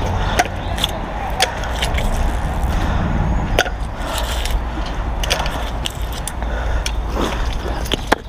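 Steady low rumble of wind on the microphone, with scattered clicks, knocks and scrapes as a magnet-fishing rope and a hooked anchor are hauled in.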